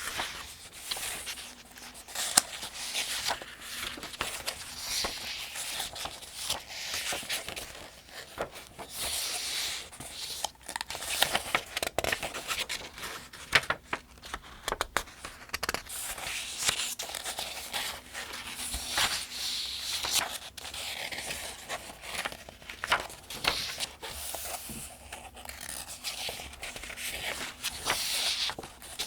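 Pages of the 2025 Farmers' Almanac being turned one after another at a steady pace: papery swishes and crinkles broken by short, sharp flicks of the page edges.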